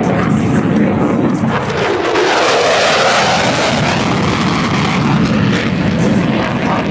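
Jet noise from a USAF Thunderbirds F-16 passing in a flyby. The roar swells about two seconds in, peaks, and eases off again by about five seconds.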